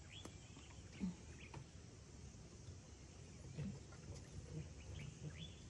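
Faint outdoor ambience: small birds chirping now and then over a steady low rumble, with a short low thump about a second in.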